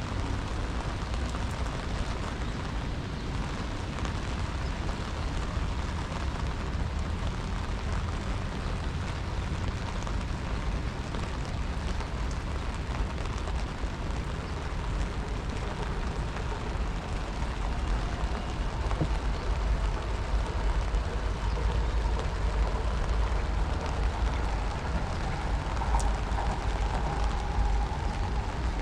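Steady rain falling, an even hiss with a deep rumble underneath.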